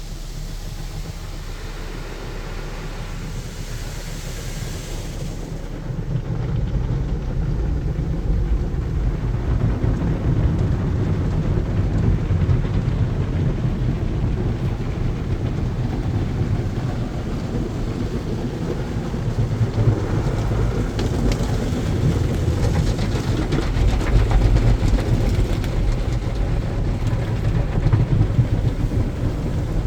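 Automatic car wash running: a steady low rumble of water and machinery, louder from about six seconds in.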